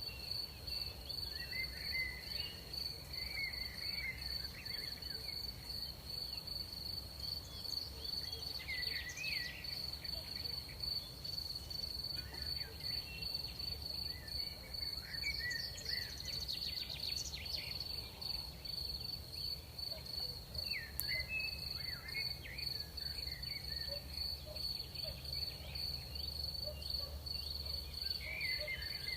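Night crickets trilling in a continuous high, steady chorus, with other shorter chirping insect calls coming and going beneath it and a low steady rumble underneath.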